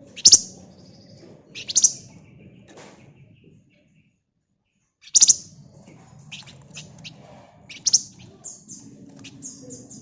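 Flamboyan (wergan Jawa, spotted crocias) songbird calling: loud, sharp, high chirps every second or two, mixed with quick smaller notes. The sound drops out completely for about a second and a half in the middle.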